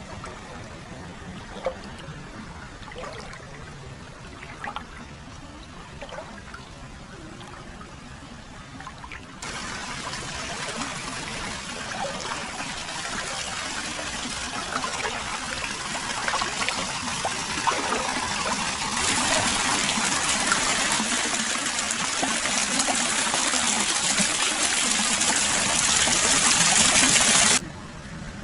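Hot-spring water flowing into a foot bath: a quieter trickle with small drips, then, about a third of the way in, suddenly a louder, fuller pouring and splashing that grows louder again later and cuts off abruptly near the end.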